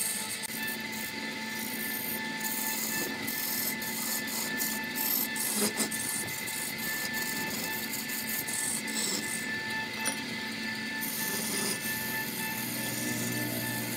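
Wood lathe spinning a wooden vase blank while a hand-held turning chisel cuts into it: a steady scraping hiss of wood being shaved, over a constant whine.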